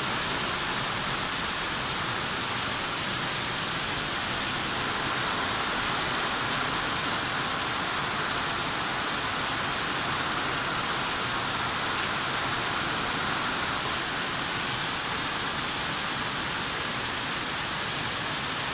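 Heavy downpour, a cloudburst: rain falling steadily and evenly with no let-up.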